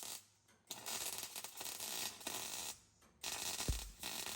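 Faint hiss of room noise that cuts in and out to dead silence several times, with a brief low thump late on.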